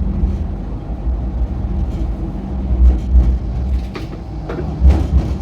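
MTR Light Rail train running along the track with a steady low rumble and a faint steady hum. A few sharp knocks come in the second half.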